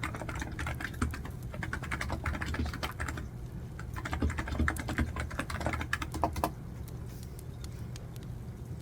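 Computer keyboard typing in quick, uneven runs of key clicks that stop about two-thirds of the way through, over a steady low hum with faint crackling from a wood fire.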